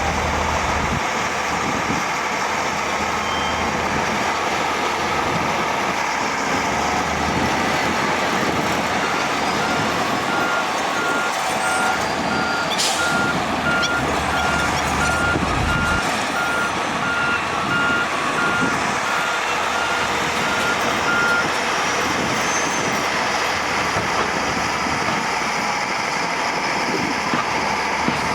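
Heavy earthmoving machinery engines running steadily. A reversing alarm beeps a single steady tone at about one and a half beeps a second, starting about a third of the way in and stopping about three quarters through. There is one sharp click near the middle.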